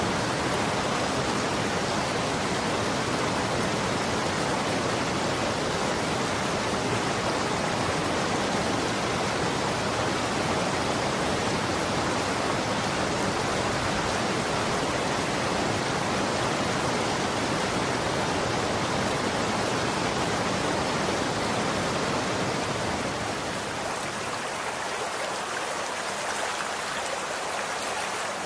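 Running water rushing steadily. About 23 seconds in it turns slightly quieter and loses some of its low rumble.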